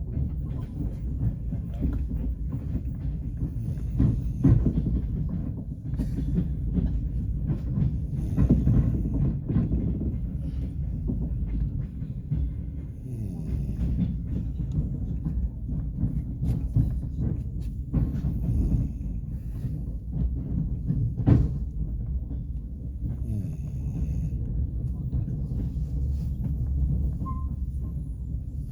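Passenger train carriage heard from inside while running: a steady low rumble with scattered sharp knocks and clanks.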